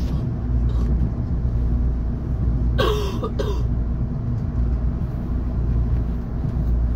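Steady low rumble of an electric train running, heard from inside the passenger car. A short cough comes about three seconds in.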